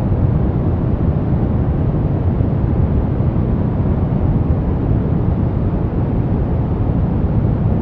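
Steady brown noise: a constant deep rushing hiss, strongest in the bass and falling off toward the treble, with no changes or events.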